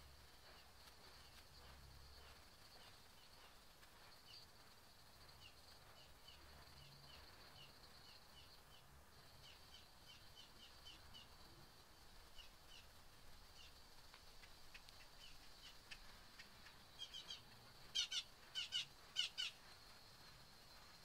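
Small birds chirping faintly in the background, over a faint steady high tone. Near the end a bird gives a quick series of louder, sharp chirps.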